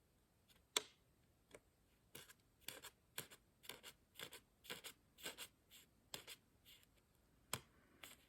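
Steel broadhead edge scraping back and forth across a coarse 220-grit diamond sharpening plate in a KME jig, raising a burr along the cutting edge. The strokes are short and even, about two a second, with a sharp click about a second in and another near the end.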